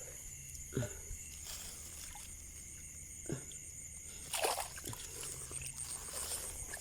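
Water sloshing and splashing in a few short bursts, the loudest about four and a half seconds in, over a steady high insect chorus.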